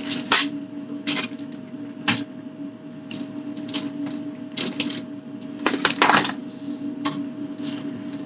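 Food containers and packages being handled and taken out of a refrigerator: irregular clicks, knocks and short rustling sounds over a steady low hum.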